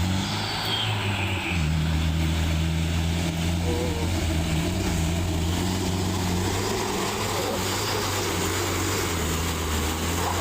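Truck engine running at steady high revs, dipping briefly about a second and a half in and then holding its pitch.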